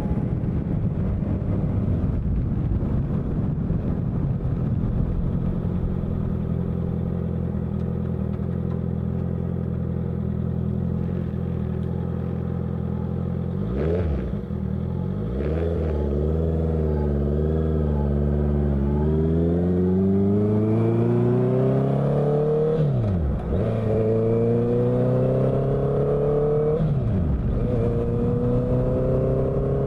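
Honda CBR650F inline-four engine, first holding a steady speed, then pulling hard with its pitch rising. The pitch drops sharply twice, about two-thirds of the way in and near the end, as it shifts up a gear, then climbs again.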